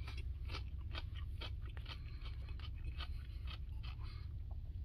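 A person chewing a mouthful of food with crunchy bits, about three soft crunches a second, over a steady low hum.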